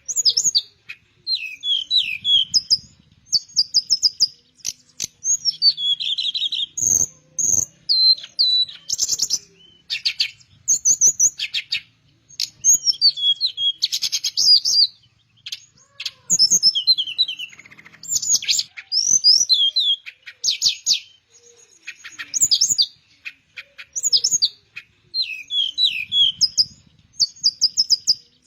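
Malay teledekan flycatcher singing vigorously: a continuous run of quick, varied phrases of high whistles, slurred notes and fast trills, separated by short pauses.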